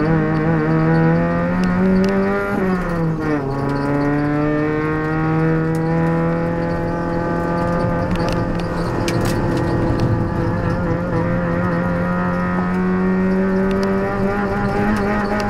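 Proton Putra race car's 1.8-litre four-cylinder engine running hard, heard from inside the cabin. The revs drop about three seconds in, then climb slowly and steadily for the rest of the stretch.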